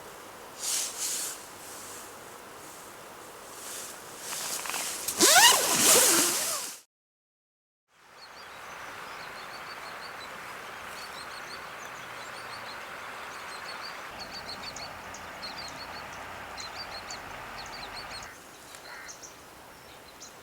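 A loud, uneven burst of noise builds to a peak about five to six seconds in and cuts off abruptly. Then a steady rush of river water with small birds chirping over it.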